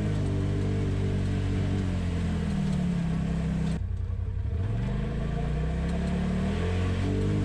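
Polaris RZR side-by-side engine running under throttle: its pitch climbs, falls away sharply as the throttle is let off about four seconds in, then climbs again.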